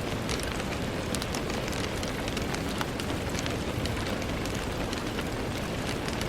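Steady rain with many small drops tapping and ticking against a window pane.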